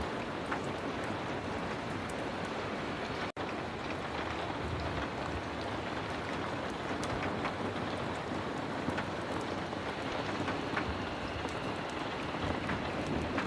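Heavy rain falling steadily, with scattered sharp ticks through it. The sound cuts out for an instant about three seconds in.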